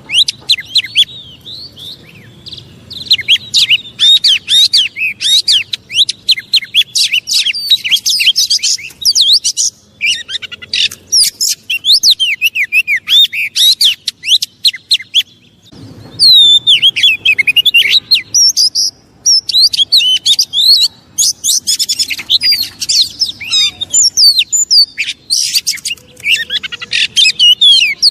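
Oriental magpie-robin singing a fast, varied stream of sharp chirps and whistles, the excited, agitated kacer song used as a lure to provoke other magpie-robins into singing, with brief lulls twice.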